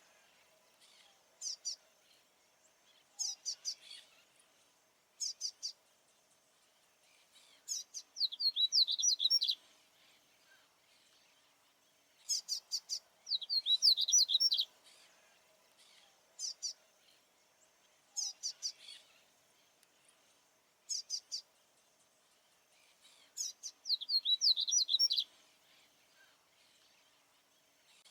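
Male papa-capim seedeater singing: repeated quick, high twittering phrases every few seconds, some short and some lasting about two seconds, with short quiet pauses between. This is the male's territorial song.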